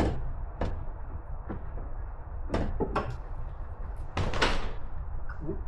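A series of clunks and knocks, seven or eight of them at irregular intervals, the loudest about four seconds in, over a steady low rumble.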